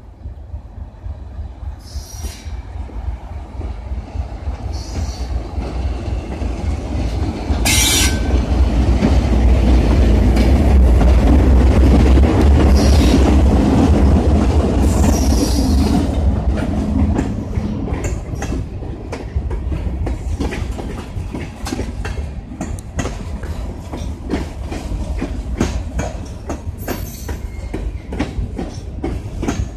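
Diesel freight train passing close by. The locomotives' engines grow louder as they approach and peak as they go past, from about ten to fifteen seconds in. Then the freight cars roll by with a steady clickety-clack of wheels over the rail joints.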